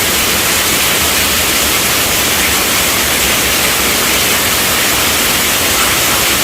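Heavy rain falling steadily on a tent roof, a dense even hiss without breaks.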